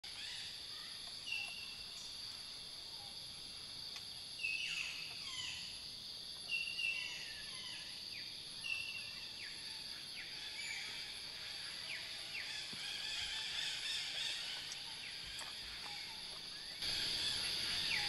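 Birds singing, short repeated chirping phrases with quick falling notes every couple of seconds, over a steady high hiss of forest ambience. The background becomes louder about a second before the end.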